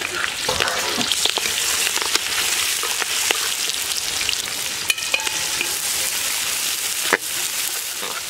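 Sliced onions and green chillies sizzling hard in hot oil in a steel wok, stirred with a spatula that knocks and scrapes against the pan now and then; one sharp knock near the end.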